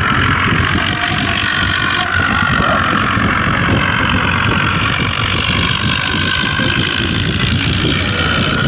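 A motor vehicle's engine running steadily, with no change in pace.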